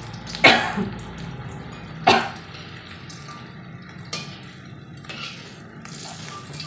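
Salted fish frying in shallow oil in a metal wok, a steady sizzle, with a metal spatula knocking and scraping against the wok. The loudest knocks come about half a second and two seconds in, with lighter ones later.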